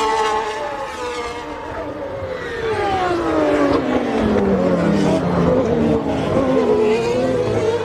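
1990 Formula One race car engines running at high revs, several notes overlapping. One engine note falls steadily in pitch over about four seconds, and other engines then hold a higher, steady note.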